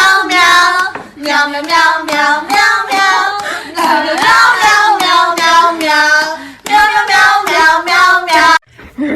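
A high, child-like voice singing a tune, which cuts off suddenly near the end.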